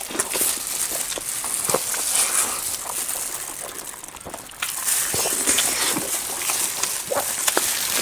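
Close-miked chewing of momos, with a stream of wet mouth smacks and small clicks as they are eaten quickly.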